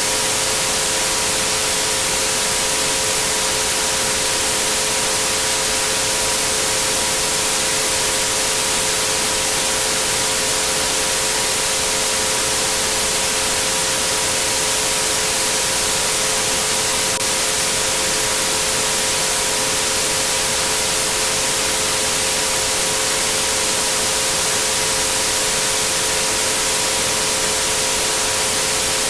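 Steady white-noise hiss with three pure tones held underneath at 432, 528 and 963 Hz, unchanging throughout.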